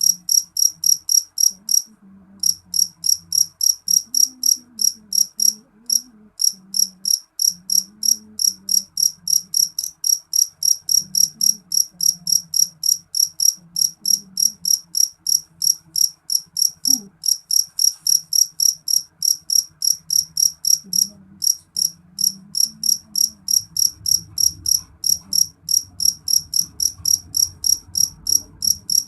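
A cricket chirping steadily in short, evenly spaced high-pitched chirps, about three to four a second, with a brief pause now and then.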